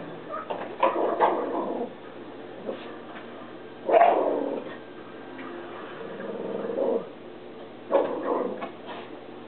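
Dog barking and whining in short, excited bursts, the loudest about four seconds in.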